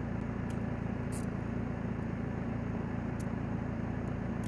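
Steady low hum of an idling vehicle engine, with a few faint short ticks over it.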